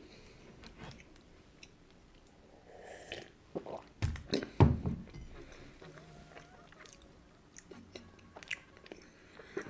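Chewing a crumbly cookie in small, quiet bites, with a sip from a glass mug of tea about four seconds in, the loudest moment.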